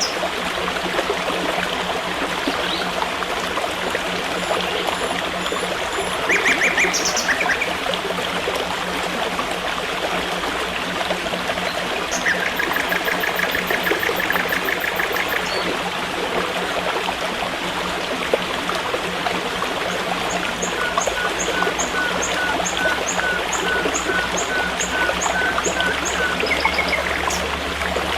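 A forest stream running steadily, with birds calling over it: a rapid trill about halfway through, and a series of evenly spaced chirps in the last third.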